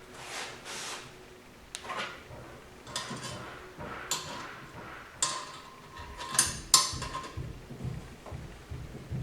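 Metal automatic-transmission parts clinking and knocking as they are handled and fitted: a string of irregular sharp clinks, several ringing briefly, the loudest a little past halfway, then softer dull knocks near the end.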